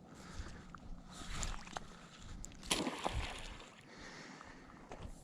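A thrown crayfish trap, a modified wire minnow trap on a rope, splashing into the lake about two and a half seconds in, with a smaller splash just after.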